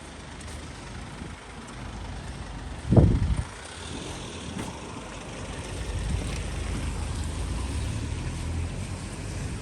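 City street traffic: vehicles running and passing, with a steady low rumble that grows louder after about six seconds. A brief low thump comes about three seconds in.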